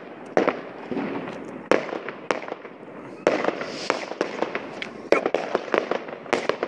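Fireworks going off: a string of sharp bangs from aerial shell bursts and firecrackers at irregular intervals, coming thicker in the second half, with a brief hiss about four seconds in.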